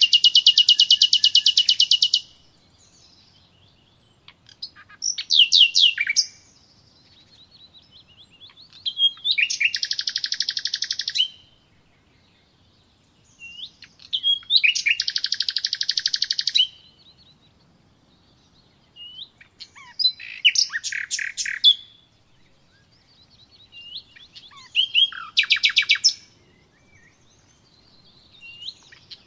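Songbird singing in short, rapid trilled phrases, about six in all, each a second or two long with pauses of a few seconds between them.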